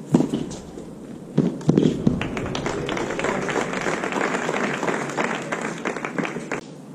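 A few sharp knocks of a tennis ball being struck, then a small crowd clapping for about four and a half seconds before it stops near the end.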